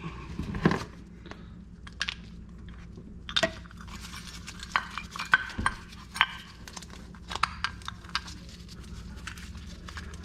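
Metal brake parts and hand tools clinking and clicking as they are handled during a brake pad change, a string of irregular sharp knocks and clinks over a steady low hum.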